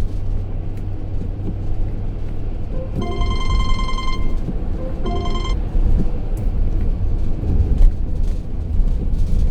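Steady low road and engine rumble inside a moving car. Over it, a phone's electronic ringtone sounds twice: a longer ring about three seconds in and a shorter one about five seconds in.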